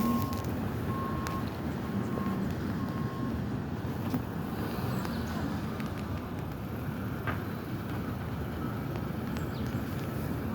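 Electronic warning beeper sounding one steady-pitched beep about once a second, growing fainter and stopping about three seconds in, over a steady low rumble.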